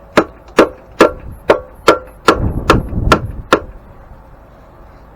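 Hammer blows on metal, about two a second with a short metallic ring after each, nine strikes before they stop at about three and a half seconds. The blows are knocking out the mill's old Babbitt bearing metal.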